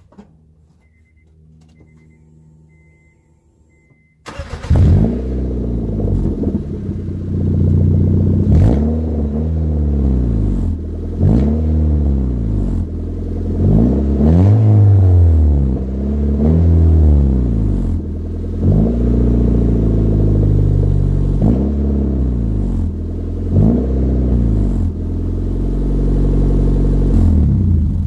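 Honda Civic EM2's 1.7-litre four-cylinder, breathing through the stock header, catalytic converter and resonator, starts about four seconds in and is then revved again and again, the revs rising and falling every two seconds or so. A small exhaust leak remains.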